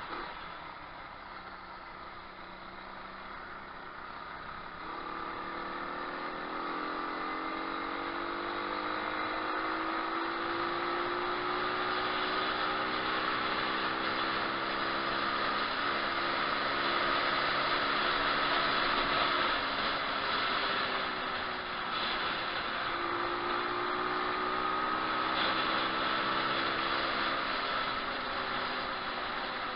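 A 125cc pit bike's engine running while being ridden. The revs climb about five seconds in, ease off about two-thirds of the way through, then pick up again, over a steady rush of wind and road noise.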